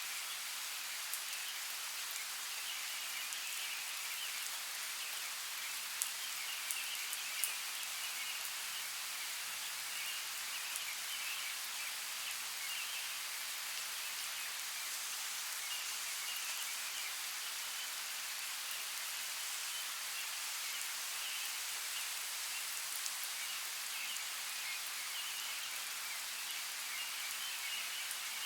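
Steady rain falling, an even hiss with a few sharper drop ticks about six to seven and a half seconds in.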